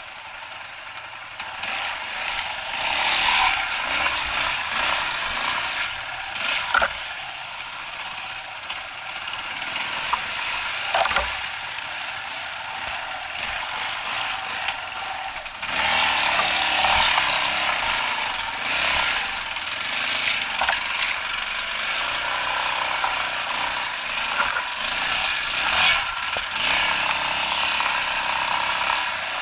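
Off-road trail motorcycle running and rattling over rough ground, with knocks and clatter from the bike. It gets louder about halfway through.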